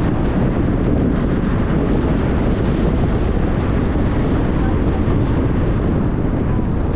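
Steady rumble of a moving car, road and wind noise, with wind buffeting the microphone.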